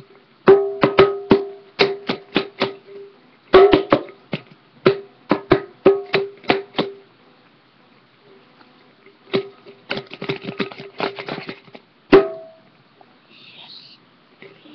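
A dish that held food, drummed like a drum. Sharp taps each ring briefly at one pitch and come in quick runs. After a short pause there is a flurry of faster, lighter taps, then one hard hit near the end.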